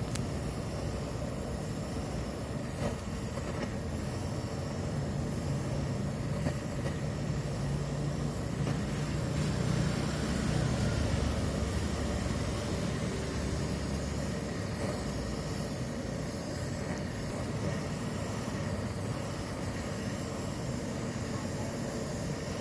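Honda Vario 150 scooter running, with a swell in loudness around ten seconds in. The rough noise is from its final-drive gearbox, the fault that is to be repaired.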